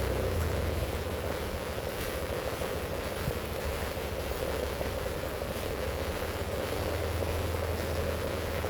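Heavy rain falling steadily, a constant even hiss with a low rumble underneath.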